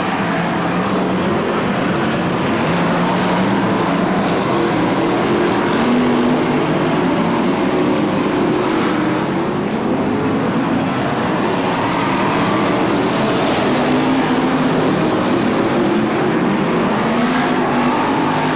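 Several BriscaF1 stock cars' Chevrolet V8 engines running hard in a race. Their blended engine notes rise and fall as the cars accelerate, lift off and pass.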